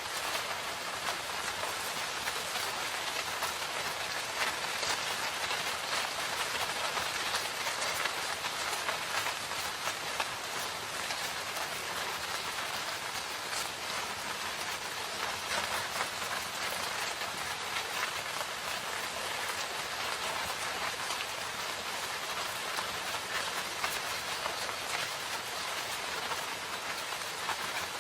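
Steady heavy rain falling in a forest: a dense, even hiss of rainfall with individual drop hits showing through.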